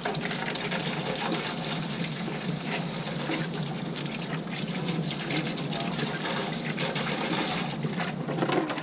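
Steady spray of water rinsing built-up dirt out of an air-conditioner blower.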